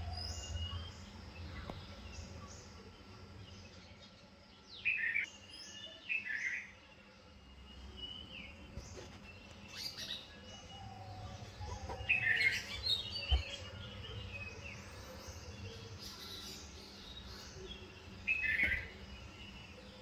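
Wild birds chirping and calling, several of them, with short bursts of chirps standing out about five, six, twelve and eighteen seconds in, the loudest around twelve seconds.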